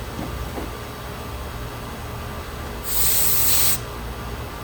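A short, loud burst of refrigerant hissing, just under a second long, about three seconds in: a charging hose being purged of air before breaking vacuum. A steady low machine hum runs underneath.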